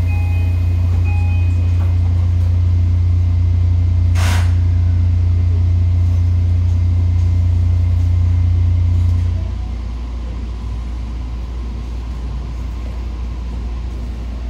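Running sound heard inside a JR Kyushu 819 series DENCHA electric train: a loud, steady low hum over the rumble of the running gear. A short hiss comes about four seconds in, and a little after nine seconds the hum steps down to a quieter, steady rumble.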